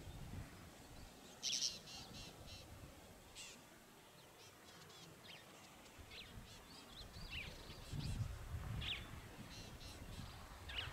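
Wild birds calling: scattered short high chirps and trills, the loudest a quick run of repeated notes about a second and a half in. A low rumble comes about eight seconds in.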